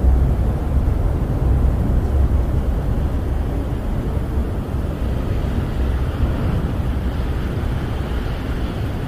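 Snowstorm wind buffeting a camper, heard from inside: a steady low rumble that swells and eases with the gusts, with a faint higher hiss growing over the last few seconds.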